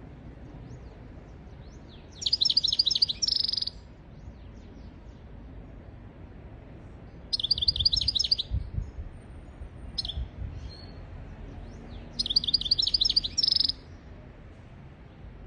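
European goldfinch singing: three short phrases of rapid, high twittering trills, each about a second and a half long and some four to five seconds apart, with a short single call between the second and third.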